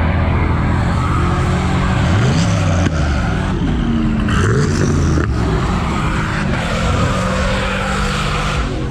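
Truck engine revving hard several times, its pitch climbing and falling, with a steady screech of spinning tyres: a burnout.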